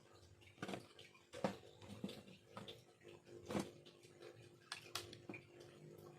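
Irregular small clicks and short scrapes of a blade working bamboo during hand carving, about two a second, over a faint steady hum.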